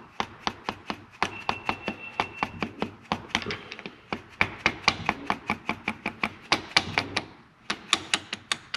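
Quick, steady light taps, about three to four a second, of a socket being struck to drive the wrist pin out of a Can-Am Maverick 1000 piston, with a short break near the end. The piston is held by hand so no side blows reach the connecting rod.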